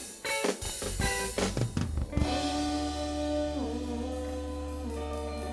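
Live band closing out a song: a few sharp drum and band hits, then a sustained chord ringing over a steady bass note, with the held notes sliding down in pitch partway through.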